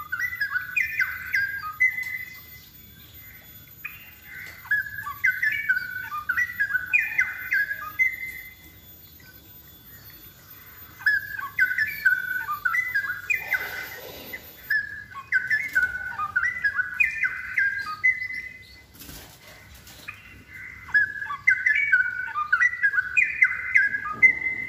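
Straw-headed bulbul (cucak rowo) singing in full voice: loud, rich, bubbling warbled phrases of quick jumping notes, repeated about four times with short pauses between. A brief rustle and a click come during the later phrases.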